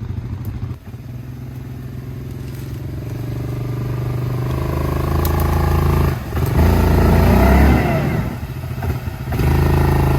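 ATV engine running under throttle, its revs and loudness building over several seconds. It lets off briefly about six seconds in, then comes back louder and rougher with scraping, crackling noise, and eases off once more before picking up again near the end.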